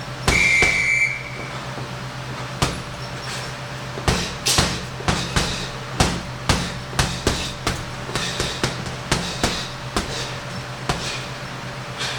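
Gloved punches landing on a heavy punching bag. There are a few single hits at first, then from about four seconds in a quick, uneven run of combinations. A single high tone sounds for under a second just after the start.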